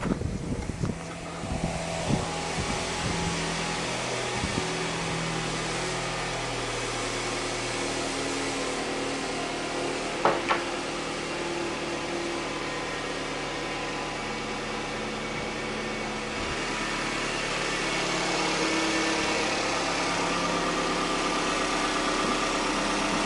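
Car engine idling steadily at a raised warm-up idle while still cold, with a few knocks in the first seconds and a single sharp click about ten seconds in.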